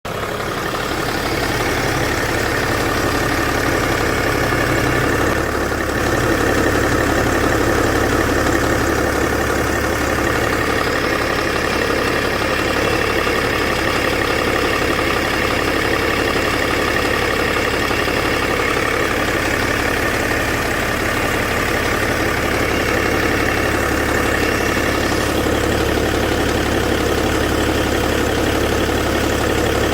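BMW E61 525d's straight-six turbodiesel engine idling steadily.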